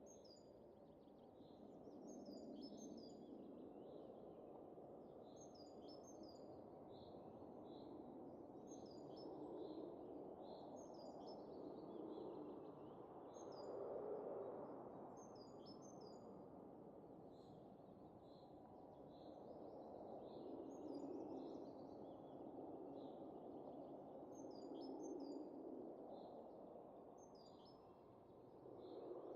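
Soft wind rising and easing in slow gusts, with small birds chirping in quick, repeated calls throughout.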